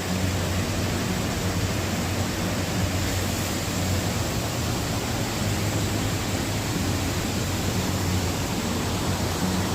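Waterfall: a steady, even rush of falling water with no breaks, over a low steady hum.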